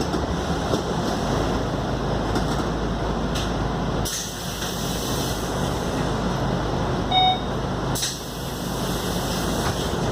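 Scania K280UD double-decker bus running steadily under way, with engine and road noise, and a short electronic beep about seven seconds in.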